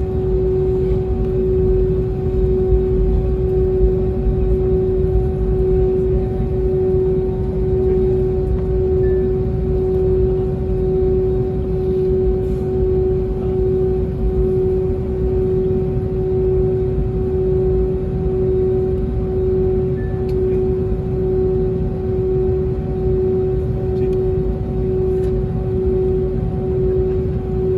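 Airbus A320neo cabin during taxi: the engines at idle give a steady drone with one constant tone and a fainter higher one over an even low rumble.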